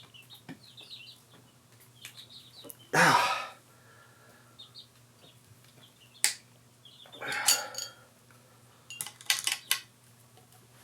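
Metal hand tools and sockets clattering in a few short bursts with sharp clicks between, as they are rummaged through, with birds chirping faintly in the background.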